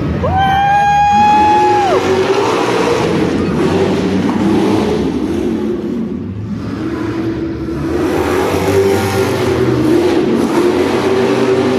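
Monster truck engine revving, its pitch rising and falling over and over. A steady high-pitched tone lasting about two seconds sounds just after the start.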